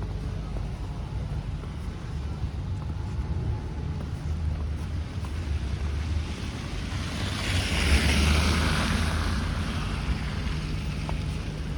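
Blizzard wind rumbling steadily on the microphone. A rushing hiss swells and fades about two thirds of the way through.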